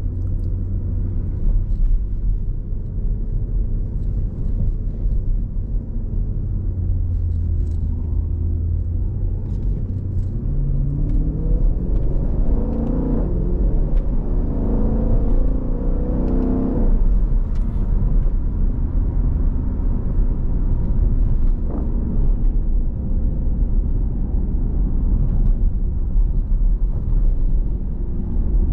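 Jeep Grand Cherokee SRT's V8 heard from inside the cabin: a low rumble at light throttle, then about ten seconds in it pulls harder with a rising drone for several seconds that drops off suddenly, after which it settles back to a steady cruising rumble.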